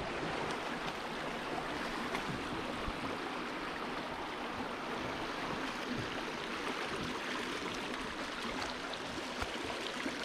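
River water rushing steadily over a rocky shoal.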